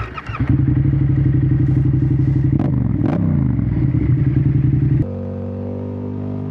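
Yamaha Tracer 7's CP2 parallel-twin engine running steadily, with a quick rise and fall in revs and two sharp knocks about halfway through. Near the end it cuts off abruptly into electric guitar music with distortion.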